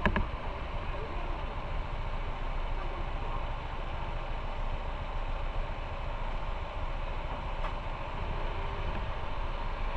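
Motorcycle engine running steadily under continuous road noise, with a brief knock right at the start.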